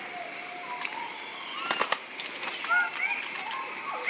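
Birds chirping in short, curving calls over a steady high-pitched hiss, with a few sharp clicks about halfway through.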